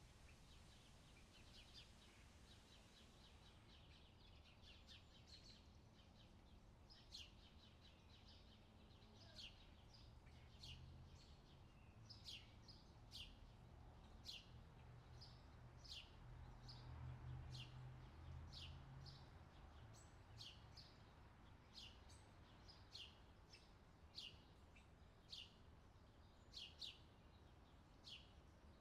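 Outdoor summer ambience: a bird repeating short, sharp downward chirps about once a second over a faint low rumble.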